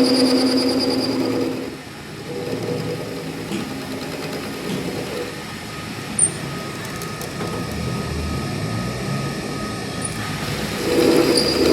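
A workshop machine running with a steady, constant-pitched whine. It drops away about two seconds in, leaving quieter scraping and clattering work noise with a sharp click midway, and starts up again near the end.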